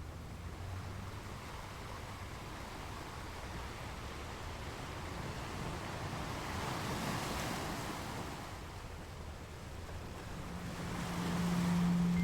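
Ocean surf: waves washing up on a beach, one swelling and falling back about seven seconds in and another building near the end.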